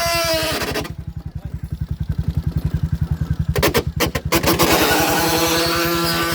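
Ox cart's wooden axle singing: a sustained, wailing whine that slides down and drops out about a second in, then comes back in about four seconds later. A fast, even low throbbing runs underneath, and a few sharp knocks come shortly before the whine resumes.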